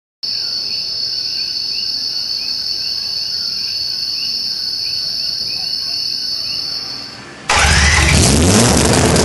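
Insects buzzing steadily with repeating chirps. About seven and a half seconds in, a Mazda 20B three-rotor rotary engine fires up suddenly and runs loud, with a short rising rev: its first start-up after the build.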